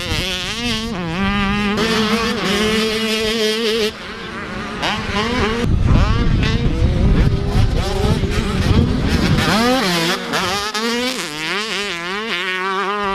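Several motocross bikes' engines revving, their pitch rising and falling over and over.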